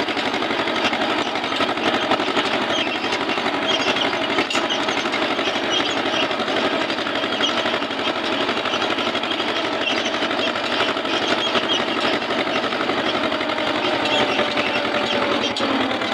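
Eicher tractor's diesel engine running steadily with a fast, even clatter.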